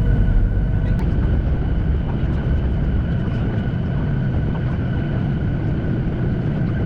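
Steady drone of a jet airliner's engines, a low rumble with a faint high whine over it.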